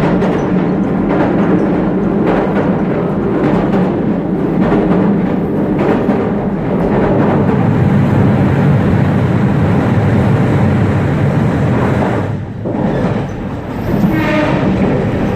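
Train running along the rails: a steady low rumble with scattered wheel clicks over rail joints, dipping briefly near the end.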